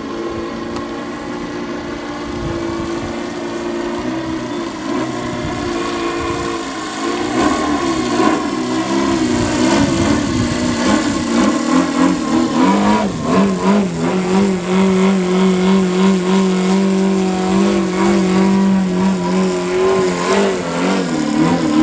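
YS TZ240 boxer four-stroke engine of a large RC aerobatic plane running in flight, its note swooping up and down with throttle and passes. It gets louder about a third of the way in and holds a steady high pitch for several seconds in the second half.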